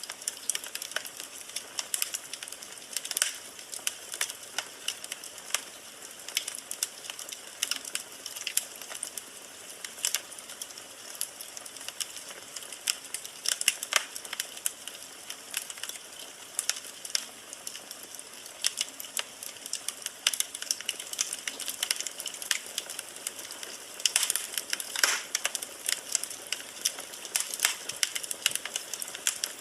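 Firewood burning in a fireplace: a steady hiss with dense, irregular crackling and popping, a few louder pops standing out.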